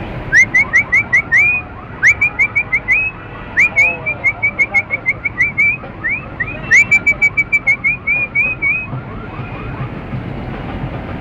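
A parrot calling in four runs of short, rising whistled notes, about five a second, over a steady background rumble.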